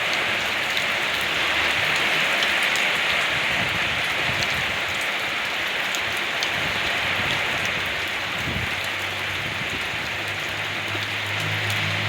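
Rain falling steadily in an even hiss, with scattered ticks of drops. A low hum joins in about two-thirds of the way through.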